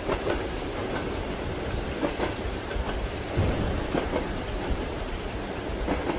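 Rain falling steadily, mixed with the rhythmic clack of train wheels over rail joints and a low rumble of the moving carriage.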